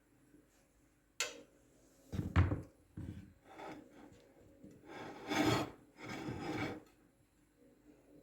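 Kitchen scraping: a sharp scrape about a second in, then several irregular rasping strokes, each under a second long.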